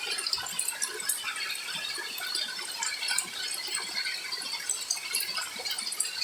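Rain falling: a dense, irregular patter of many small drop ticks.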